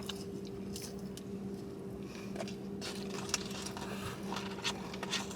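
Soft rustling and scattered small clicks of fast food being handled and eaten, over a steady low hum.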